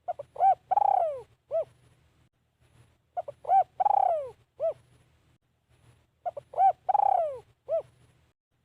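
Decoy spotted dove cooing its song three times, about three seconds apart. Each phrase is a few short coos, a long coo that falls in pitch, then one more short coo.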